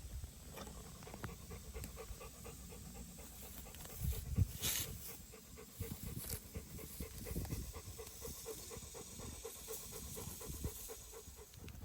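A dog panting rapidly and steadily close by, several breaths a second. About four seconds in comes a brief louder rustle.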